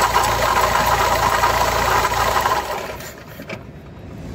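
Car engine idling with a dense whirring hum, which stops about two and a half seconds in, as if the engine is switched off.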